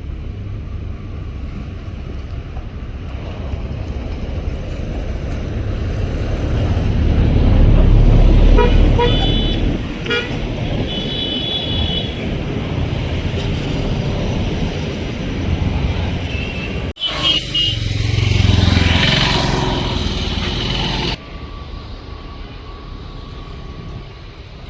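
Road traffic passing close by: a heavy vehicle rumbles past, loudest about eight seconds in, with several short horn toots just after. Later another vehicle passes with a horn honk.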